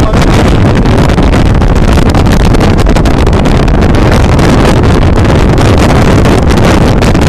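Strong wind buffeting the microphone in a storm at the sea shore: a loud, continuous, rumbling roar with rapid gusty crackle.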